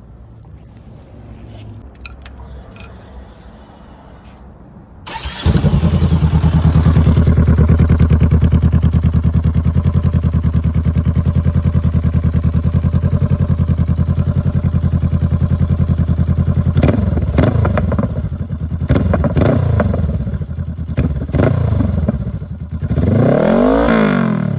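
A 2022 Honda CB500F's parallel-twin engine starting about five seconds in through a Coffman's slip-on exhaust and idling steadily. From about two-thirds of the way through, the throttle is blipped several times, each rev rising and falling, with the highest rev near the end.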